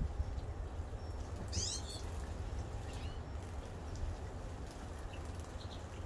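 A bird's call with curving pitch, about a second and a half in, then a fainter short chirp about three seconds in, over a steady low rumble.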